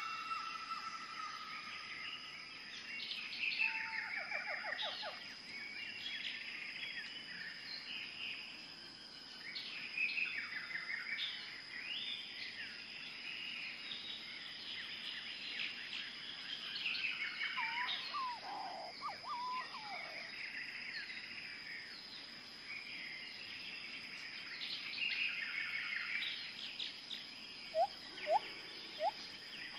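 Several birds chirping and calling in the surrounding trees, many short calls and trills overlapping, with a few lower calls about two-thirds of the way through.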